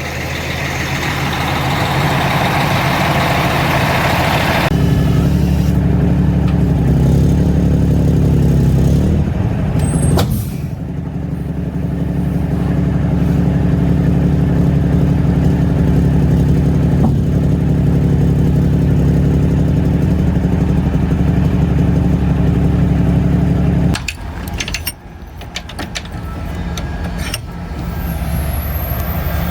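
Mack Superliner dump truck's diesel engine running, beginning with a hiss. A few seconds in the engine note comes up strong, climbs in pitch and drops back as the truck works through a gear, then runs steadily until the sound changes abruptly near the end.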